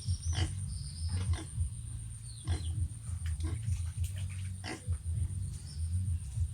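Pigs grunting in a low, continuous series, with short high chirps and clicks every second or so.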